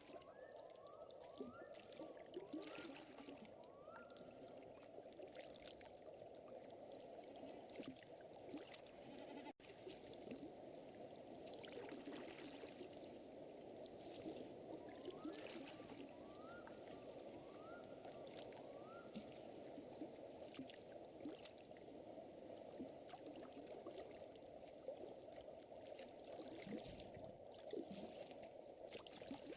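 Quiet lakeside nature ambience: a fire crackling faintly over a steady wash of water. Two runs of short rising chirps come from a small animal, one near the start and one about halfway through.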